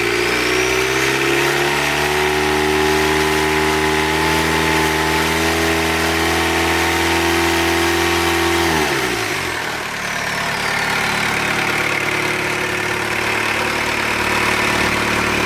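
Volkswagen AAZ 1.9 turbodiesel in a Mk1 Rabbit running on a test fire: held at raised revs for about nine seconds, then dropping back to a steady idle. A faint whistle rises with the revs and falls away as they drop.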